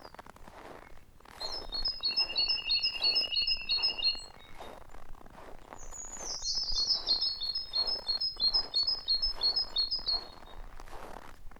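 Songbirds singing: two long songs of rapid, repeated high notes, the first starting about a second in with a steady trill beneath it, the second starting about six seconds in with a few falling notes before the repeated ones.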